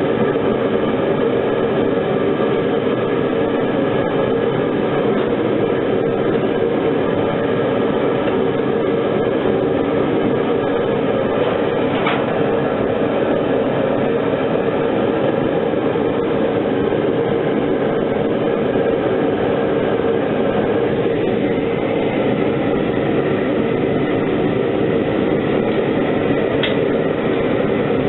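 Foundry furnace running during a preheat burn: a loud, steady rush of burner noise that holds unchanged throughout, with a couple of faint ticks.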